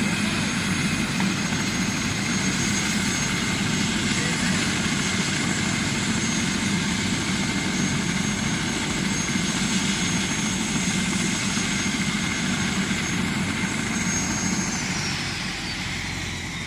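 Helicopter running close by: steady rotor and engine noise with a high turbine whine. Near the end the whine drops in pitch and the noise fades.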